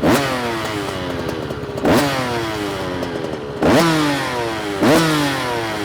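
Two-stroke dirt bike engine revved in four quick throttle blips. Each rises sharply in pitch and falls back toward idle over about a second or two, as the bike is being warmed up.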